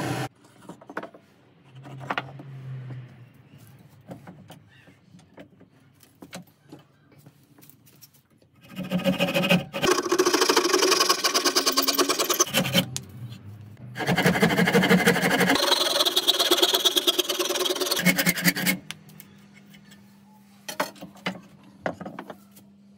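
A small electric power tool running in two bursts of about four seconds each, with clicks and knocks of handling in the quieter stretches between.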